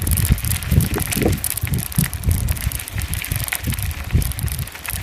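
Bicycle tyres rolling over a dirt road with a steady crackle of grit, while wind buffets the microphone in uneven low gusts.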